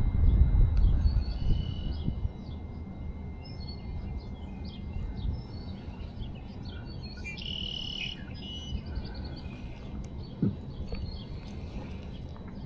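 Birds chirping and calling over a low rumbling background that is loudest for the first two seconds, with a louder trilling call about seven and a half seconds in and a single knock near the end.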